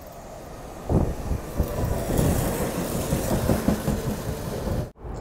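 Electric commuter train running close past a platform: a sudden loud rush about a second in, then a steady rumble with wheels clattering on the rails, cut off abruptly near the end.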